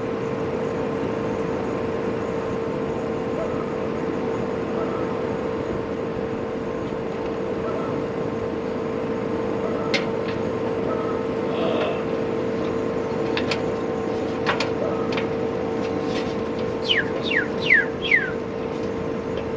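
A motor running steadily with a constant hum and rushing noise, with a few sharp clicks and, near the end, four quick high falling chirps.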